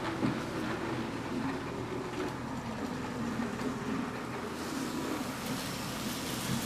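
HO scale model trains running on the layout's track: a steady rolling noise of wheels on rails with a wavering hum.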